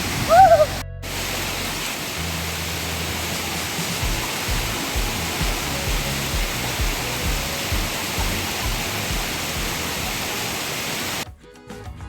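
Steady rush of a tall waterfall's falling water, with a brief voice call at the very start and background music's low, regular beat underneath. Near the end the water sound cuts off, leaving only the music.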